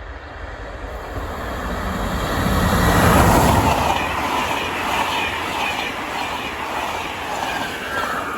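A train passing on the line, its rail and wheel noise swelling to the loudest about three seconds in, staying loud, then beginning to fade near the end.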